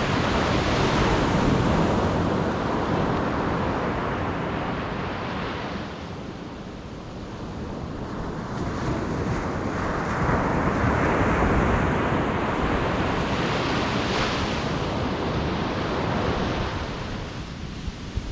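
Ocean surf breaking and washing up a beach, swelling loud twice with a quieter lull between, with wind rumbling on the microphone.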